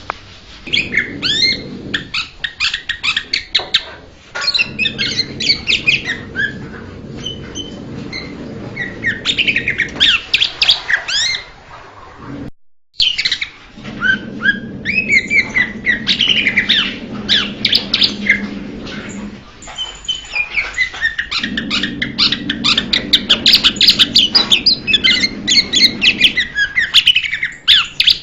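Blue-winged leafbird singing: a fast, varied stream of chirps, whistles and sweeping notes, broken once by a brief silent gap a little before halfway, with a faint low hum underneath.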